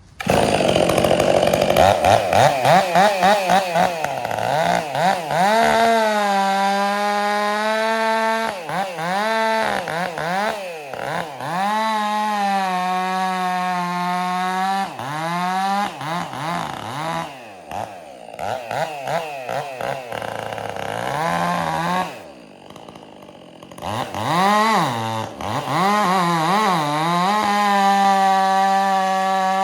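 Stihl MS 400 C two-stroke chainsaw with an Egan Straight Shot muffler, revving up sharply at the start and then running at full throttle through small wood. Its pitch rises and sags as the chain loads up, holds steady through longer stretches, and drops back low for a moment about 22 seconds in. The owner feels it has lost torque with the straight-shot muffler and the much bigger bar.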